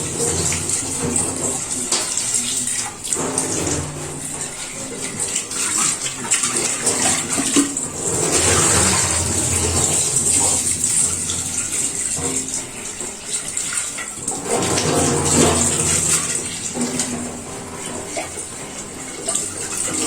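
Water running and splashing as a fish bowl is rinsed out with plain water, swelling and easing as the flow and the bowl shift.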